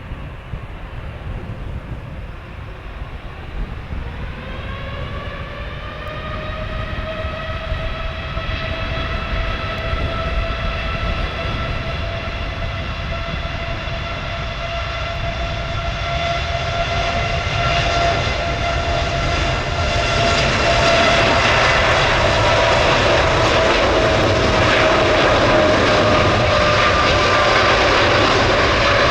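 Heavy jet airliner's engines spooling up for takeoff: a whine that rises in pitch about four seconds in and then holds steady, growing louder as the takeoff power builds.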